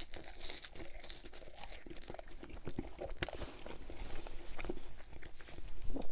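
Close-miked chewing of a mouthful of sauce-dipped McDonald's french fries, several at once, giving irregular soft, wet crunches and mouth clicks. The fries are cooled delivery fries.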